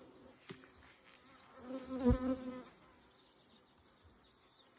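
Honeybees buzzing around an open hive, a wavering hum that swells loud for a moment about two seconds in as a bee flies close, then settles back to a faint steady buzz.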